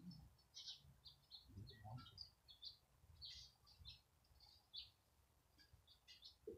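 Faint songbird chirping: many short, high notes in quick, irregular runs, over a low background rumble.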